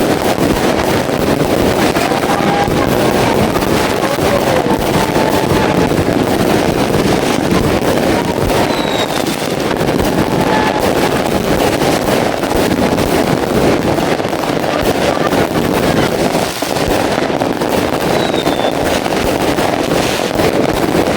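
New Year fireworks going off in a dense, continuous crackling barrage with no separate big booms standing out, with a few faint whistles through it.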